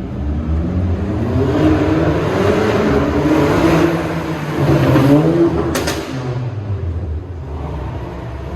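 Audi TT engine being revved hard, its exhaust note rising and falling in repeated sweeps. A single sharp crack comes about six seconds in.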